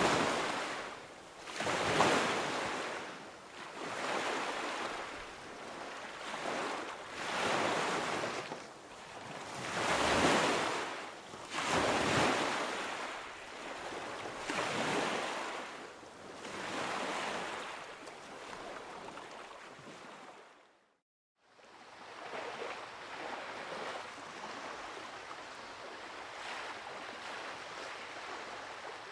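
Recorded sound effect of sea waves: surf washing in and out, with a swell every couple of seconds. About two-thirds of the way through the sound cuts out for a moment, then resumes as a steadier, quieter wash.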